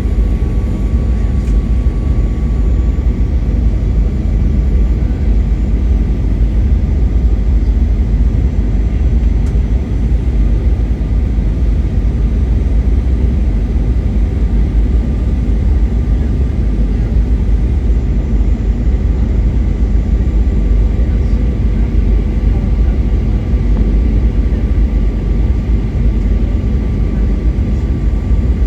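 Boeing 737 cabin noise in flight: a loud, steady rumble of engines and airflow with faint steady whining tones above it.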